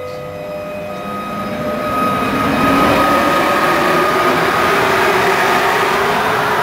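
Electric locomotive running on the rails: a steady whine over a rushing noise that grows louder over the first two to three seconds, then holds.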